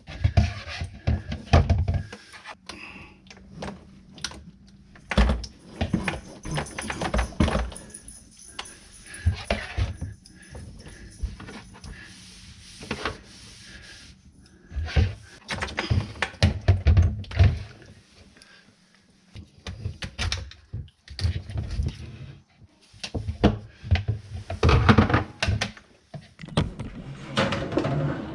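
Irregular clinks, knocks and rattles of tools and plumbing fittings being handled and tightened under a sink.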